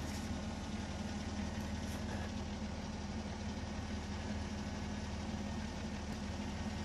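Minivan engine idling steadily, with a couple of faint clicks.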